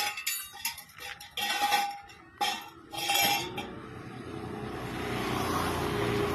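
Several sharp metal clanks and clinks, then a passing vehicle's steady noise that swells toward the end.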